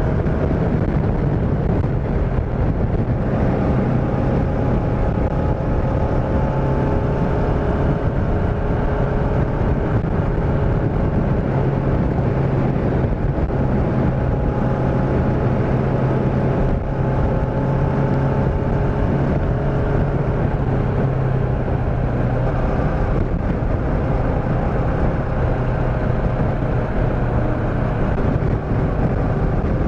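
Motorcycle engine running at a steady cruising speed, its pitch holding almost constant, under a broad rush of wind and road noise.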